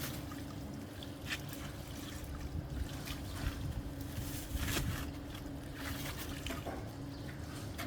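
Water trickling and splashing, with scattered light knocks and a steady low hum underneath.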